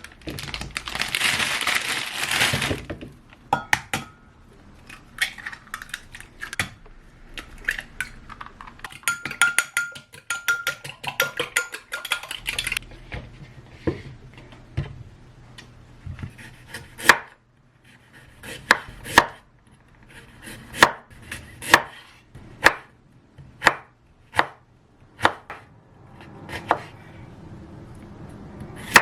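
Kitchen prep noises, with utensils and dishes handled. In the second half a knife chops on a cutting board in slow, evenly spaced strokes, about one a second.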